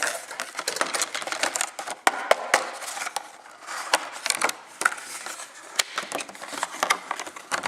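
Packaging being handled by hand: a dense run of crinkles, clicks and taps as a diecast toy truck is worked out of its packing.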